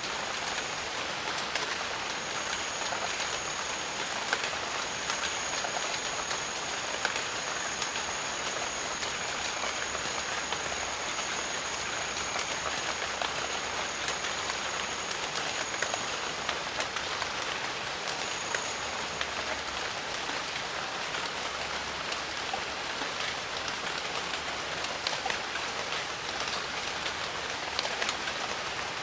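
Steady rain falling, with many close individual drops ticking over an even hiss. A thin, steady high-pitched tone runs through the first half, breaks off about 16 seconds in, and returns briefly a couple of seconds later.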